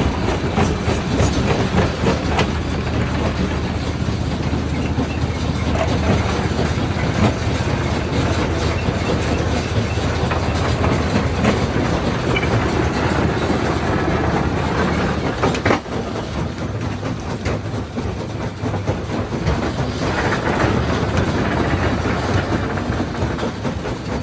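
Quarry jaw rock crusher running: a steady low drone under constant clattering and cracking of stone. The drone drops and changes about two-thirds of the way through.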